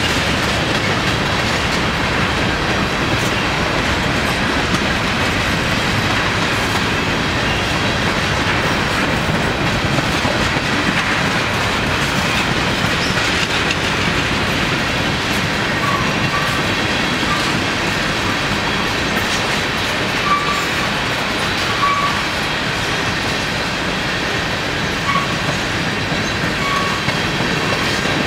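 Freight cars of a long manifest train rolling steadily past at speed, their wheels clacking over the rail joints. Several brief high wheel squeals come in the second half.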